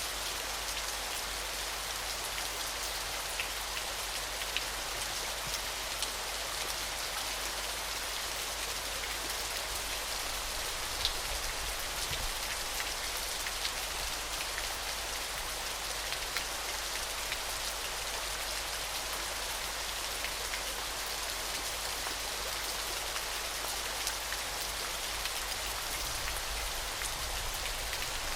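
Waterfall: a steady rush of falling water, dotted with small splashing clicks.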